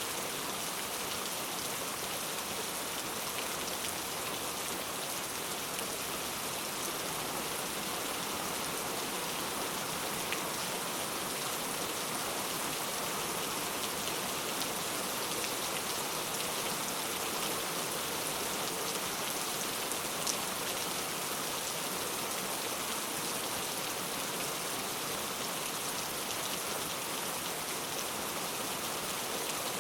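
Steady rain falling, an even hiss with a few scattered louder drops.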